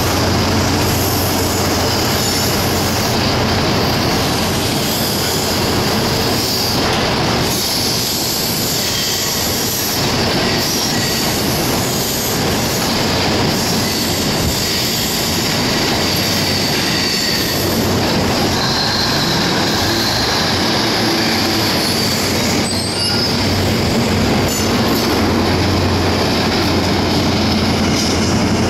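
An InterCity 125 high-speed diesel train pulling out, its coaches rolling past with a steady rumble of wheels on rail and a high whine over it. A deep engine drone from the power cars is strongest at the start and again over the last few seconds.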